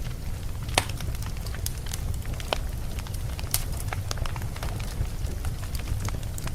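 Wood fire burning, with a steady low rumble of flames and irregular sharp crackles and pops from the burning logs, the loudest pop a little under a second in.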